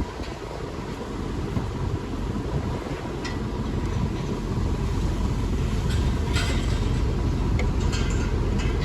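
Strong wind buffeting the microphone in an open field: a low, gusting rumble that swells a little toward the end, with a few faint clicks.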